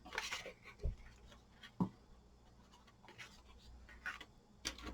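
Faint rubbing and scratching of a paper tag being handled and pressed, as a lifted napkin corner is glued down, with two soft taps about one and two seconds in.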